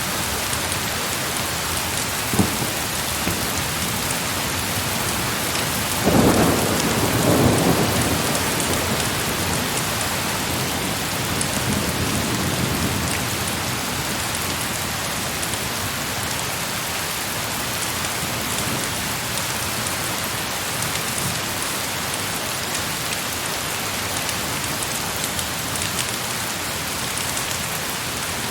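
Heavy rain falling steadily, with a roll of thunder about six seconds in that lasts a couple of seconds and fades, and a sharp crack a few seconds before it.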